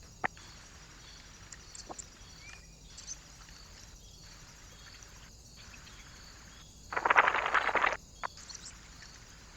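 Birds at a feeder: a burst of rapid wing fluttering and rustling about seven seconds in, lasting about a second, over a faint steady outdoor background.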